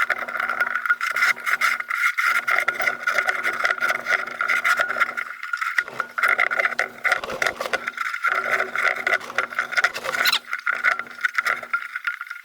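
Metal lantern parts of an old Coleman lantern being twisted and screwed together by hand: continuous scraping and rubbing with dense small clicks, in stretches of one to three seconds as the part is turned.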